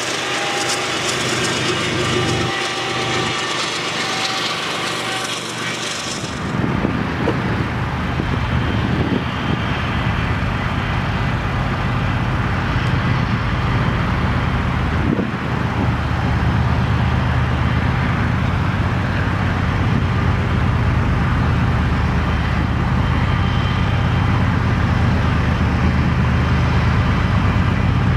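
A freight train rolling past with wheels clacking on the rail joints, a BNSF diesel locomotive among its cars. It cuts off abruptly about six seconds in, and a steady low diesel rumble takes over, slowly growing louder as another train approaches.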